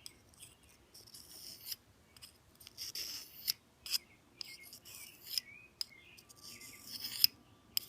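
A knife blade drawn again and again across a sharpener by hand, a run of short scraping strokes about one a second.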